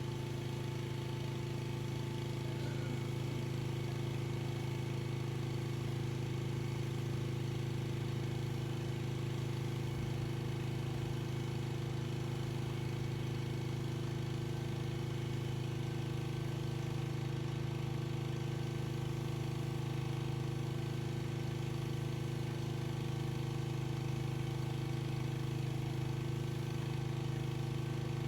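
Pressure washer running steadily, its motor a constant drone.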